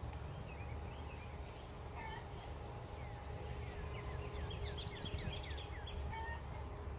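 A songbird singing: scattered short chirps, then a quick run of about a dozen falling notes about four and a half seconds in, over a low steady rumble.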